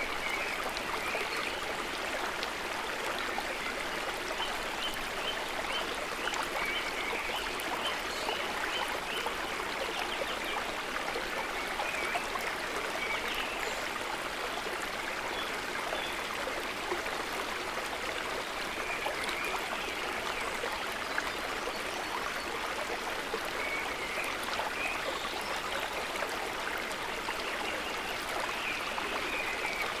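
River water running steadily over stones, with short high chirps coming and going several times.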